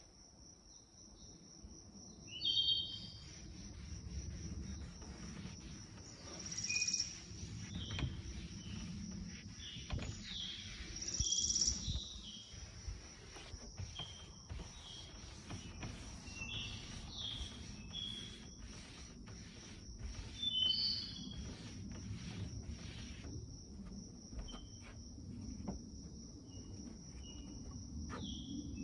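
Outdoor ambience: an insect trills on one steady high note without a break, while birds give short chirps at intervals and a low background rumble runs underneath.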